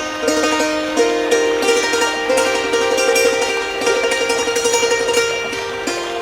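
Thai khim (hammered dulcimer) playing a slow melody, its ringing notes sustained by rapidly repeated strokes.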